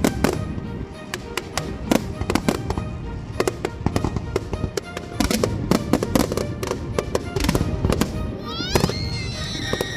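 Aerial fireworks bursting in quick succession: many sharp bangs and crackles over a rumble, with music underneath. Near the end a whistling tone glides up, holds, then falls.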